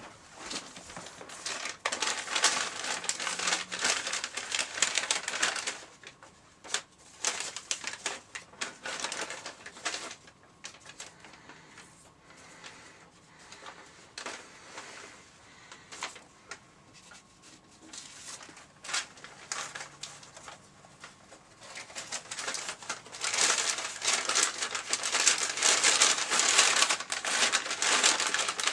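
Paper bags crinkling and rustling as the paper bag puppets are handled, in bouts, quieter in the middle and loudest near the end.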